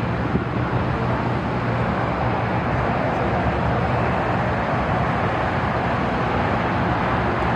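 Jet engines of a Boeing 777-300ER airliner, a steady rushing roar that slowly grows louder as the aircraft nears.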